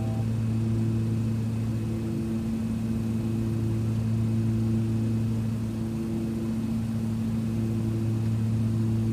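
ATR 72 turboprop's propellers and engines running in a steady low drone, with a slow throb that swells and fades about once a second.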